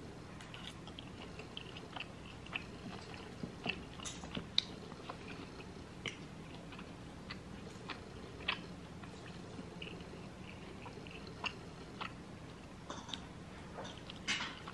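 Close-miked chewing of tri-tip steak, with small scattered clicks of mouth and cutlery.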